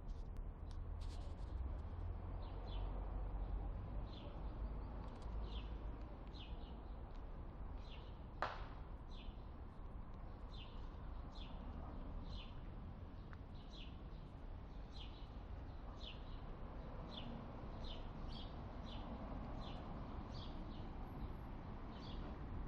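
A small bird chirping over and over, a short high chirp about once or twice a second, over a low steady rumble. A single sharp click about eight seconds in.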